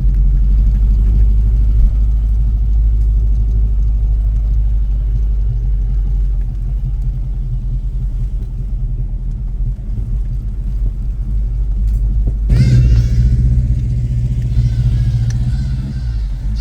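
Steady low rumble of a car engine running. About twelve and a half seconds in, it gets louder and quick high chirping sounds come in over it.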